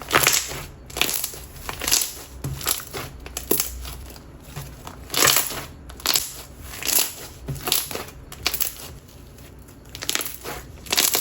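Lotion-texture wood-glue slime being squeezed and stretched by hand, giving irregular wet squishing and crackling pops about once a second.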